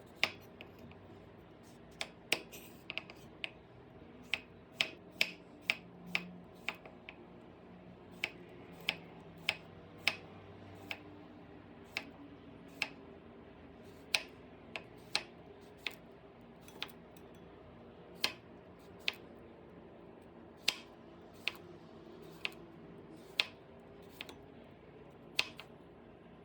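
Sharp single clicks or taps at an uneven pace, roughly one a second, over a faint low hum.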